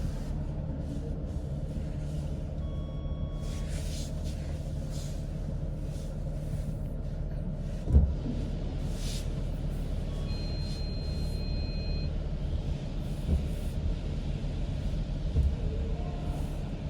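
Steady low rumble of idling vehicle engines, with a single sharp thump about eight seconds in and a few short beeps around the third and tenth to twelfth seconds.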